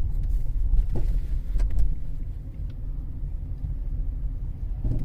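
Steady low road and drivetrain rumble heard inside the cabin of a 2013 Cadillac CTS 3.0 RWD on the move, with a few faint clicks about a second in and again a little later.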